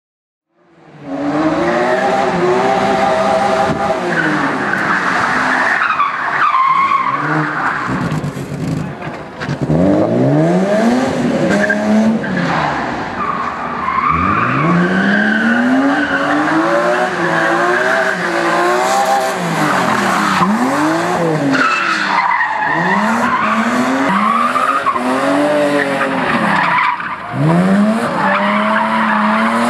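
BMW M3 E36's straight-six engine revving hard, its pitch climbing and dropping over and over as the car is thrown through a slalom, with tyres squealing as it slides.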